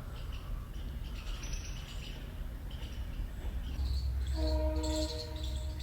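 Small birds chirping intermittently in the garden, over a low rumble of wind or handling on the microphone. Near the end a steady multi-note tone is held for about a second and a half.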